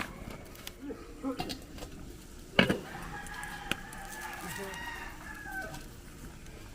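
A rooster crows once, a long call of about two and a half seconds, starting just after a sharp knock that is the loudest sound. A few short clucks come a little earlier.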